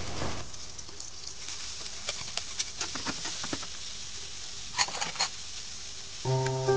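Salted squid and shallots frying in hot oil in a steel wok: a steady sizzle with scattered sharp pops and crackles, and a quick cluster of pops about five seconds in, the squid spattering as it fries. Light music comes in near the end.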